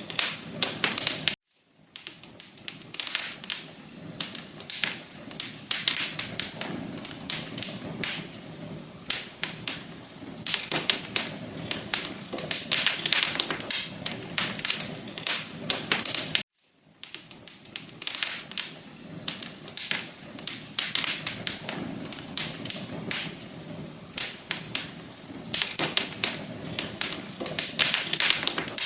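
Wood fire crackling in a fireplace: a steady stream of sharp pops and snaps over a soft hiss. It cuts out briefly twice, about fifteen seconds apart.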